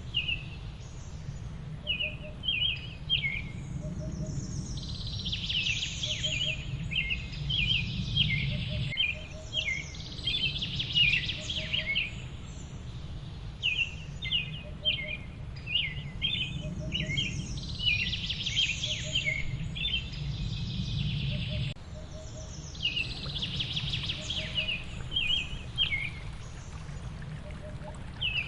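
Several songbirds chirping and singing in quick runs of short, high notes over a steady low background hiss. A fainter, lower note repeats about every second and a half.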